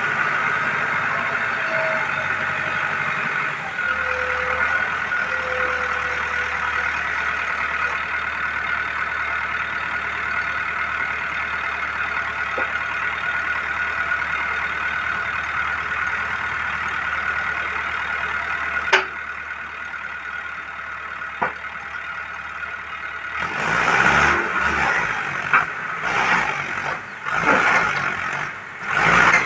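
Tractor diesel engine running steadily at idle, with a sharp click or knock partway through and louder, uneven engine and machinery noise near the end.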